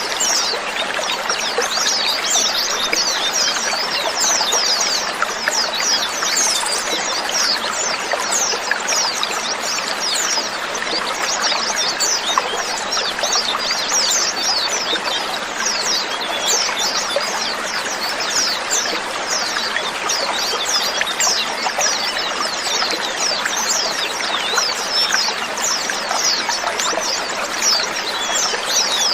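A flock of white-eyes (pleci) calling together: a dense, continuous chatter of many short, high, downward-sliding chirps, overlapping so thickly that they blur into a steady hiss.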